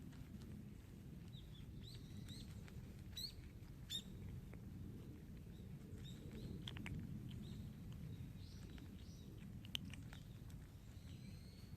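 Faint, short high-pitched chirps, a few at a time, over a steady low rumble of outdoor background noise.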